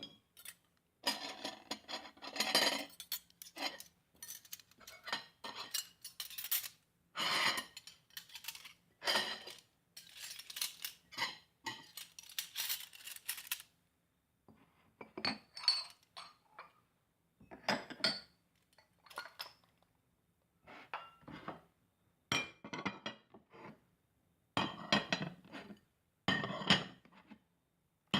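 Plates, cutlery and glasses clinking and rattling in irregular bursts, with short pauses between them.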